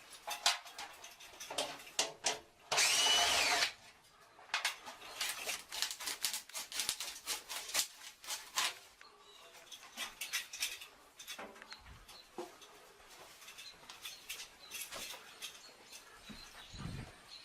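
A cordless drill runs briefly with a whine about three seconds in, among many short clicks and knocks of tools and parts being handled.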